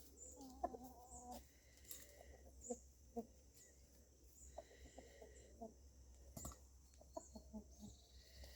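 Domestic hens clucking faintly. A drawn-out note comes about a second in, followed by scattered short clucks.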